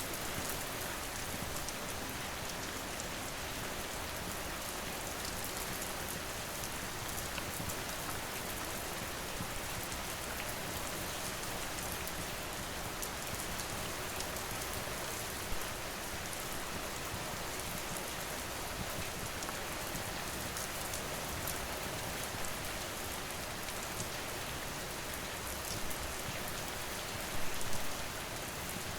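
Steady rain falling, with a wood fire crackling through it in scattered sharp pops: one louder pop about halfway through and a louder cluster of pops near the end.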